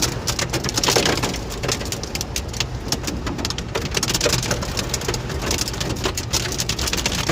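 Heavy rain falling steadily, with many sharp drop hits on hard surfaces close to the microphone.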